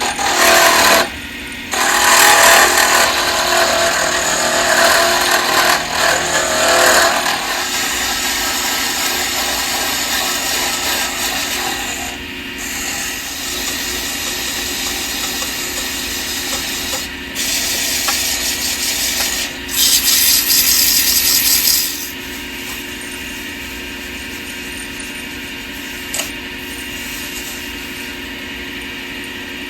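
Wood lathe running, with a tool rubbing and scraping against the spinning wood of a honey dipper being turned. There are loud spells over the first several seconds and again around twenty seconds in, over a steady motor hum.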